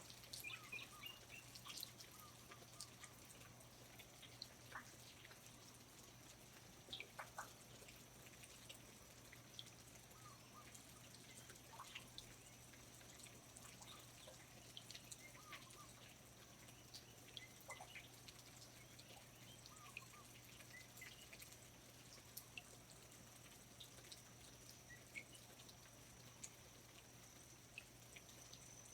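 Faint rainforest ambience: scattered water drips and short bird chirps over a low steady background.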